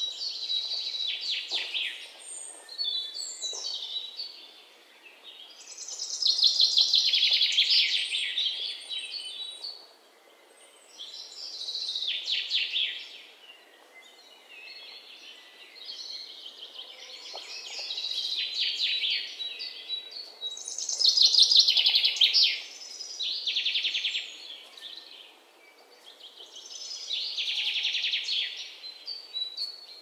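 A songbird singing: repeated high trilling phrases of rapid notes, each about two seconds long, coming every few seconds.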